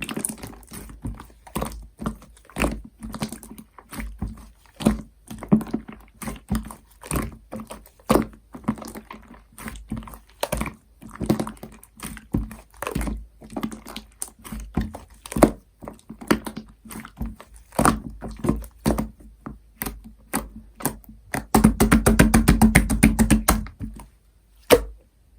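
Pink clear slime with shaving foam worked into it, squished and kneaded by hand: irregular wet clicks and pops. Near the end comes a fast run of clicks lasting about two seconds, then one last pop.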